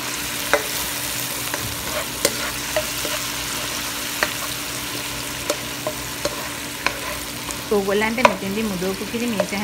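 Onions, curry leaves and spices sizzling as they fry in oil in a non-stick wok, stirred with a wooden spatula that scrapes and taps the pan every second or two. A voice is heard briefly near the end.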